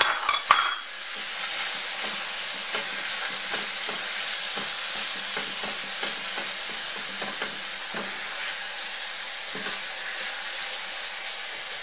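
Ground beef, tomato and sofrito sizzling steadily in a nonstick frying pan, stirred and scraped with a silicone spatula. There are a few sharp knocks in the first second.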